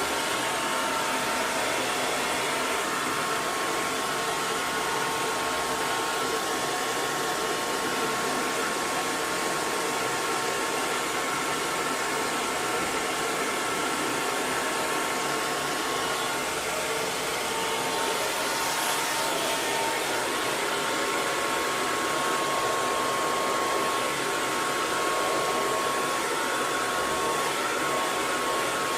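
Hair dryer running steadily: an even rush of air with a steady motor whine over it.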